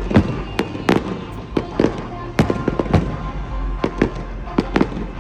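Aerial fireworks going off in an irregular barrage of sharp bangs and cracks, several every second.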